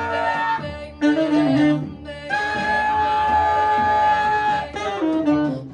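Live band music, with a saxophone holding long notes: one fades about half a second in, and another is held for over two seconds in the middle, followed by shorter notes.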